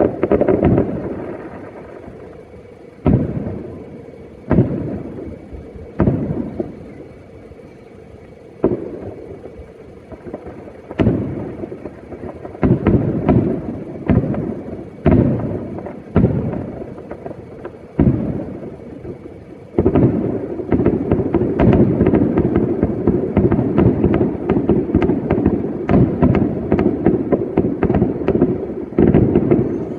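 Fireworks display: aerial shells bursting with loud bangs, each trailing off, at first one every second or two, then from about twenty seconds in a rapid, continuous barrage of bursts.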